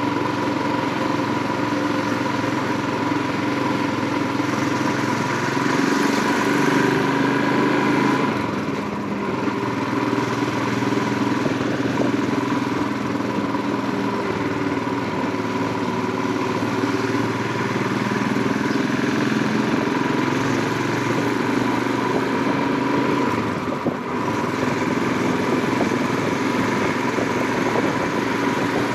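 Royal Enfield Himalayan 411's single-cylinder engine running steadily under way, with wind and road noise. The engine gets louder and higher about six seconds in, then eases off briefly around nine seconds and again for a moment near twenty-four seconds.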